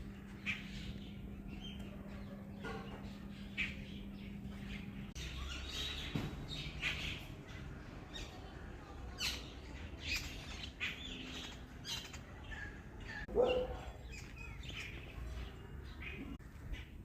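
Birds chirping in short, scattered calls, with one louder, lower call about thirteen seconds in.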